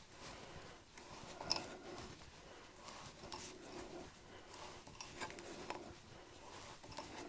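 Hand tap cutting a small UNC thread in metal, turned by a tap wrench: faint, irregular clicks and creaks, with one sharper click about a second and a half in.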